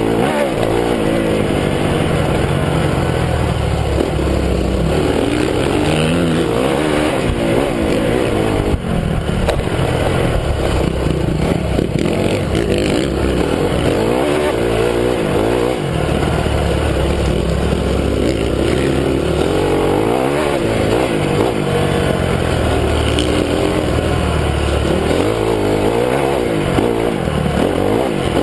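Honda CRF250 motocross bike's four-stroke single-cylinder engine being ridden hard, its pitch climbing and dropping again and again as the throttle is opened and shut.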